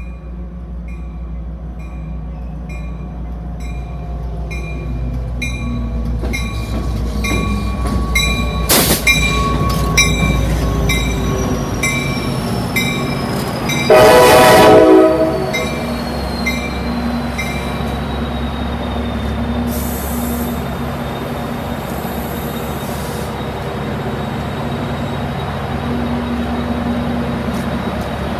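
Metra commuter diesel train pulling into a station: engine rumble, with a bell ringing about twice a second, and a high wheel-and-brake squeal that falls slowly in pitch as it slows. One short, loud horn blast comes about halfway through.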